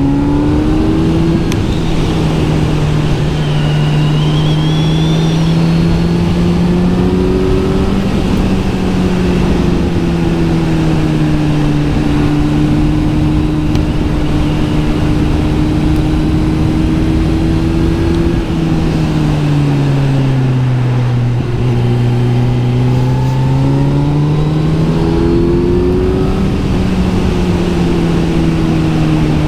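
Kawasaki Z900 SE's inline-four running through an SC Project S1 aftermarket exhaust while being ridden. The engine note holds fairly steady with gentle rises and falls, drops off as the throttle is eased about two-thirds of the way through, then climbs again near the end.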